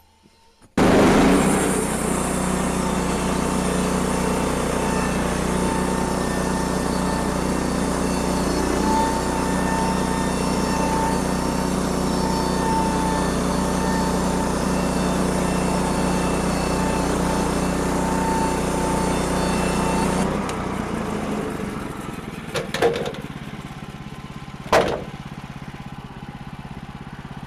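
Sawmill engine and blade running steadily, starting suddenly about a second in and dropping to a lower, quieter running about twenty seconds in. Two sharp knocks follow a couple of seconds apart near the end.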